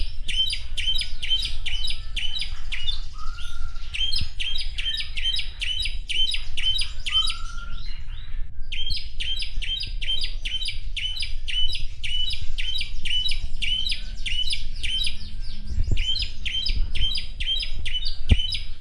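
Asian pied starling (jalak suren) singing: a fast string of short chirps, about four a second, with a brief pause about eight seconds in and a couple of lower slurred whistles early on. A steady low rumble runs underneath.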